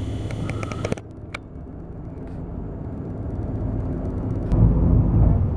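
Boat engine running under way: a low, steady hum that swells louder near the end.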